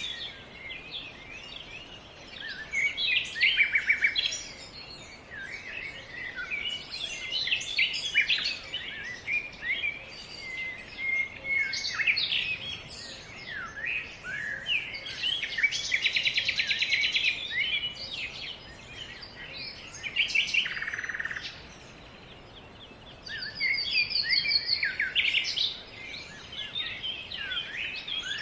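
Several small songbirds singing and calling at once, a dense mix of short chirps, whistled phrases and fast trills, with a long rapid trill about halfway through.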